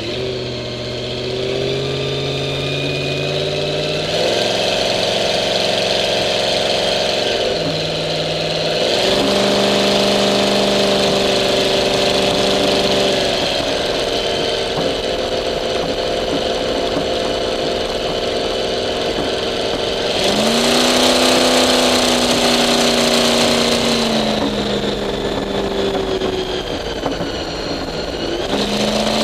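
Engine of a 1951 Henry J gasser running hard, its pitch stepping up and down several times and held steady between changes, with a big jump up about four seconds in, a drop near eight seconds, and another jump up about twenty seconds in.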